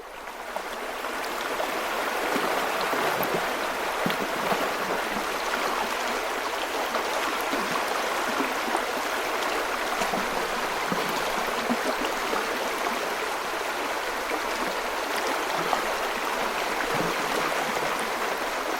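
Steady rushing noise of running water, like a stream, fading in over the first second or two, with small ticks scattered through it.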